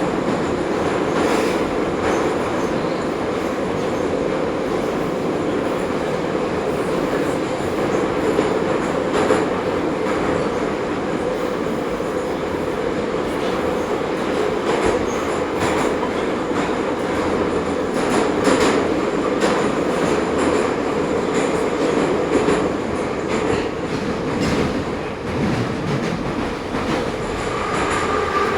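Ezh3 metro train running, heard from inside the car: a steady rumble with the odd clack of wheels over rail joints. A thin whine comes in near the end.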